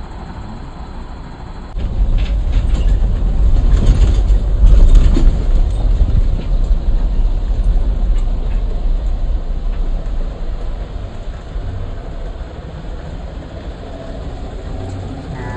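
Safari jeep driving on a rough track: engine rumble and body rattle that surge suddenly about two seconds in, peak a few seconds later, and then ease off.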